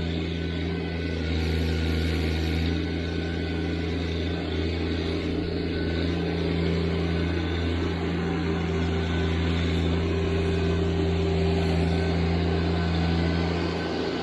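TYM T574 tractor's diesel engine running at a steady speed.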